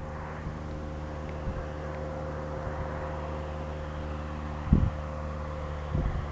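Piper PA-28 light aircraft's piston engine and propeller running steadily on landing, a steady hum under a broad rushing noise. Two brief low thumps of wind on the microphone near the end.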